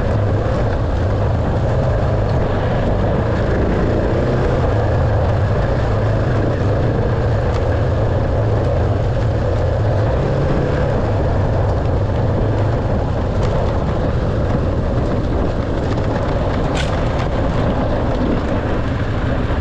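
Dirt bike engine running while ridden, its revs rising and falling.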